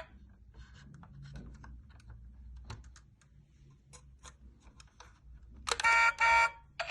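A run of faint, scattered clicks, then two loud electronic beeps close together near the end.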